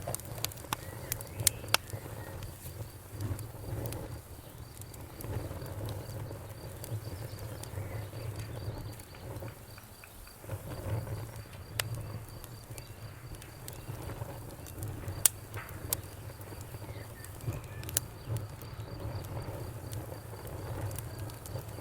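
Wood fire in a fireplace crackling: scattered sharp pops and snaps, the loudest about 15 seconds in, over a low steady rumble of burning.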